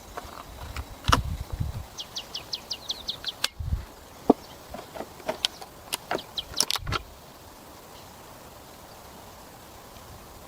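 Irregular clicks and knocks, with a quick run of about nine short high chirps about two seconds in, like a small bird's trill; it goes quiet apart from outdoor background after about seven seconds.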